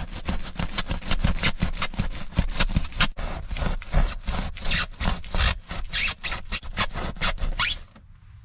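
A blade sawing through a sheet of thermal insulation with quick back-and-forth strokes, cutting out a hole for a stove flue pipe. The sawing stops abruptly near the end.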